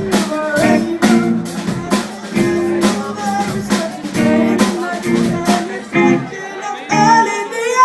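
Rock band playing live: guitars and drum kit with singing, the drums dropping out a little over halfway through.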